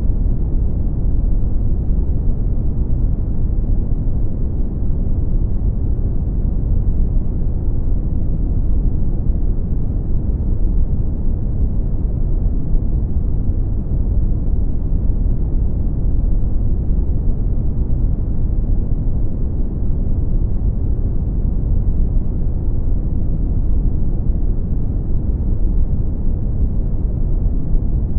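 Steady brown noise: an even, deep rumbling hiss with most of its weight in the low end and almost nothing in the highs.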